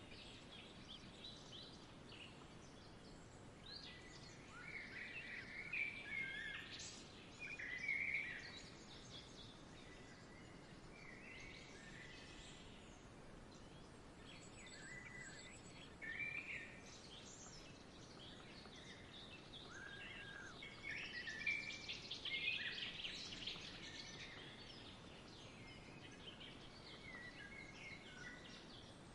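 Small birds chirping and calling on and off over a faint steady outdoor hiss, busiest a few seconds in and again about two-thirds of the way through.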